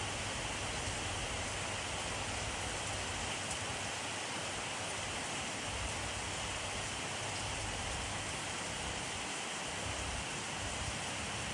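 Steady rainfall, an even hiss of rain on a surface with faint scattered drops.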